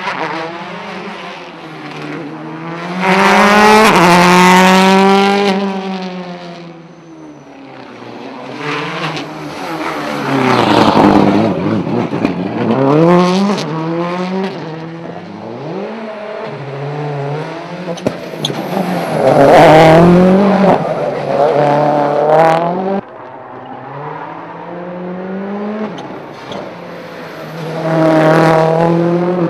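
Rally cars racing past one after another on a tarmac circuit, their engines revving hard and dropping through gear changes and lift-offs. There are about four loud passes, with some tyre squeal.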